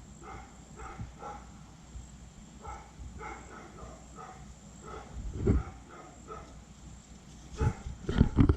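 Dogs barking repeatedly, a short call every few tenths of a second, with a few loud low knocks about five and a half seconds in and near the end.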